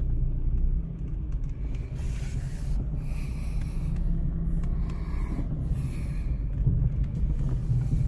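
Steady low rumble of a car driving, with faint hiss rising and falling now and then.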